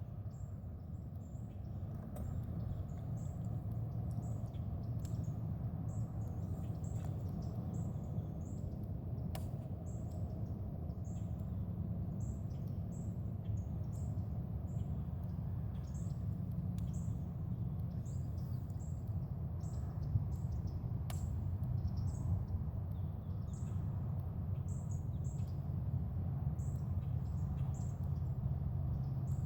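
Birds chirping: short, high chirps repeating irregularly over a steady low rumble, with a couple of sharp clicks.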